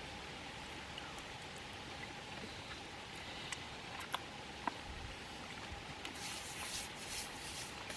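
Steady low background hiss with a faint constant hum, broken by a few light clicks and taps a few seconds in and a short stretch of brighter rustling hiss near the end.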